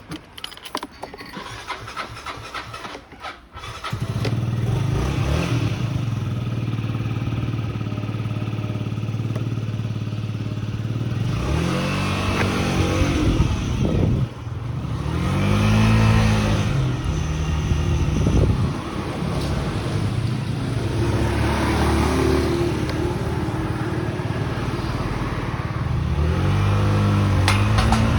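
Small motorcycle engine starting about four seconds in after a few light clicks, then running steadily. It revs up and eases back down several times as the bike accelerates away.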